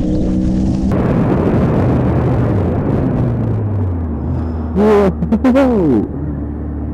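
Vehicle engine running with road and wind noise; its note falls as it slows about midway. Near the end come a few short sounds that rise and fall in pitch.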